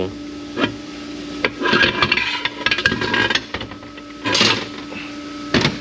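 Metal parts of a Ford AOD automatic transmission knocking and scraping as the direct drum and output shaft are worked out of the case. There are several separate clanks and a stretch of rubbing and scraping, with a knock near the end.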